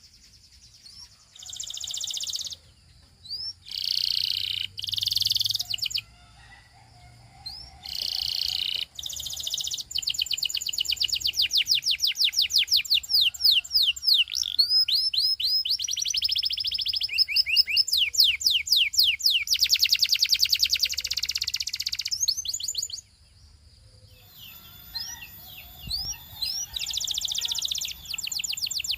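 Canary singing: a few short bursts of song with gaps between them, then a long run of rapid, evenly repeated rising notes lasting about twelve seconds. After a brief pause the trilling resumes near the end.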